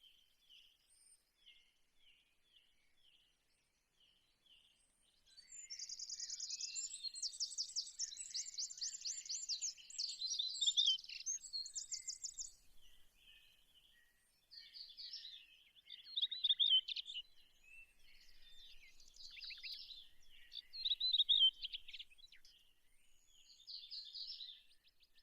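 Small birds chirping: soft scattered chirps, then a fast rapid trill lasting several seconds, followed by shorter chirping phrases.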